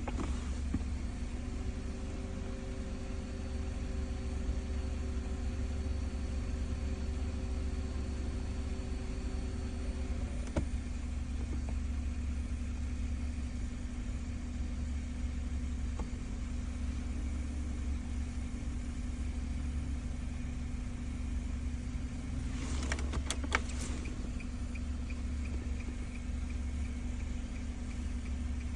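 Steady low engine hum, like a vehicle idling, with fainter steady tones over it that stop with a click about ten seconds in, and a couple of clicks later on.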